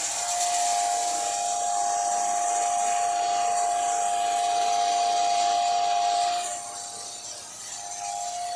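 A 3-horsepower electric motor on a variable frequency drive runs a lathe, giving a steady high whine with a hiss over it. About six seconds in the hiss drops away and the sound gets quieter, while the whine carries on.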